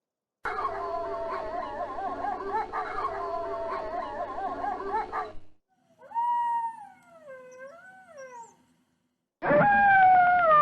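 Wolves howling in three separate stretches: several wavering howls overlapping for about five seconds, then a single fainter howl that falls and rises again, then a loud howl near the end that slides down in pitch. Each stretch starts and stops abruptly.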